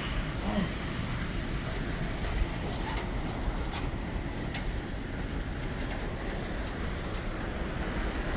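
Strong typhoon wind rushing past a high-rise building: a steady low rumble with a few sharp clicks or knocks about three and four and a half seconds in.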